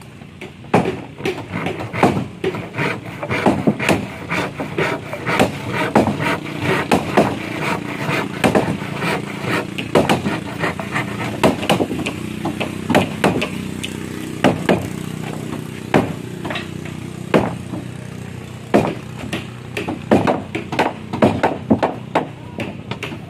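Irregular, rapid hammer blows on wood, as in boatbuilding work on a timber hull, with a steady motor hum underneath through most of it.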